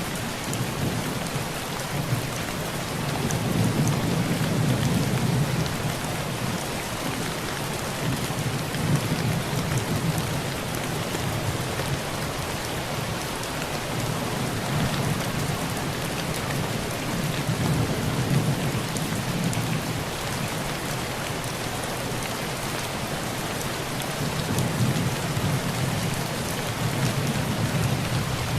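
Heavy rain pouring steadily on a tin roof, with low, rolling thunder rumbles that swell and fade several times.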